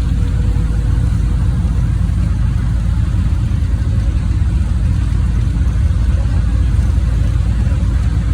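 Steady low engine and road rumble of a NefAZ 5299 city bus under way, heard from inside the cabin.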